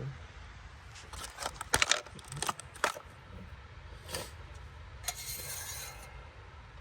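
Handling noise while engine oil is topped up a little at a time: several sharp clicks and knocks, the loudest about two seconds in, then a brief hiss about five seconds in.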